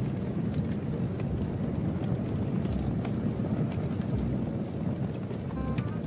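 A car driving, giving a steady low engine and road rumble.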